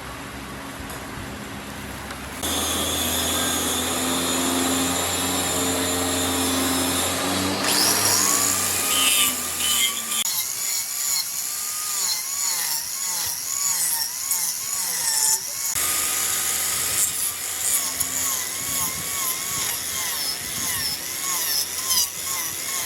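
Woodworking power tools and a wood lathe cutting wood, in several short spliced clips with sudden changes of sound, including a warbling whine that rises and falls about twice a second.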